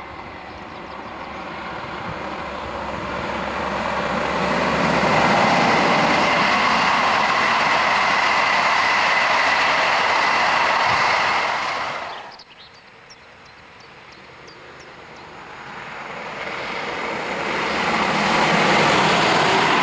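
Locomotive-hauled passenger trains passing on electrified main-line track: a rush of wheel-on-rail noise that builds over several seconds and holds steady as the coaches go by, then cuts off abruptly about twelve seconds in. A second train, headed by an electric locomotive, then approaches, its noise building again towards the end.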